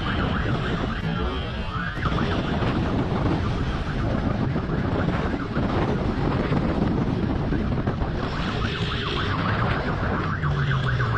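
Police siren sounding, with a fast repeating yelp and occasional slower rising sweeps, over a dense low rumble.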